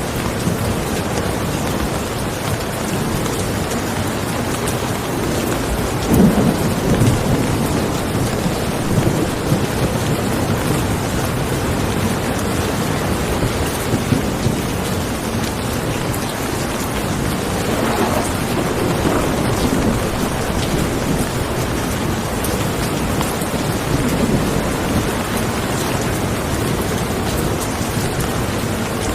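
Steady heavy rain, with low rolling rumbles of thunder swelling about six seconds in, again around eighteen seconds, and more faintly near twenty-four seconds.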